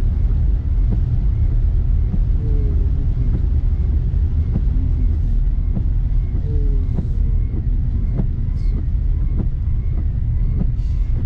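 Car road noise heard from inside the cabin: a steady low rumble of engine and tyres, with faint scattered ticks.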